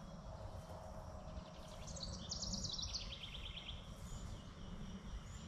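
Quiet woodland ambience with a low wind-like rumble; about two seconds in a bird sings one rapid trill that steps down in pitch partway through, followed later by a couple of faint short chirps.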